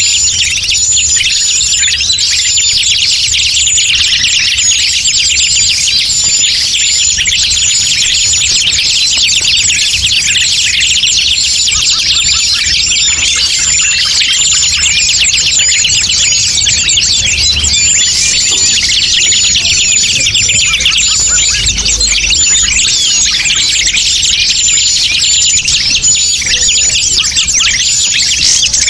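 Bird-lure (pikat) recording of forest birds: a dense chorus of many rapid chirps and twitters, with a short high note repeating about once a second over it.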